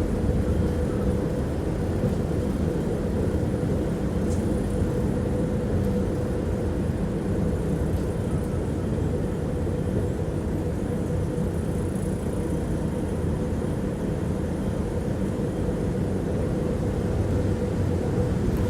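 Tram running along the line, heard from inside the passenger cabin: a steady rumble of the wheels on the rails with a constant hum.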